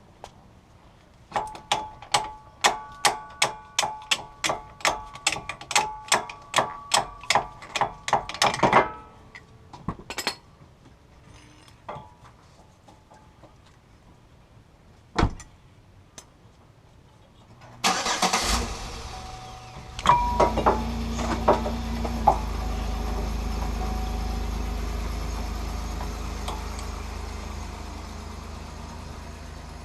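A run of about twenty sharp metallic clicks at an even pace, roughly three a second, then a few single knocks. About two-thirds of the way through, a vehicle engine starts and runs with a low, steady rumble that slowly fades.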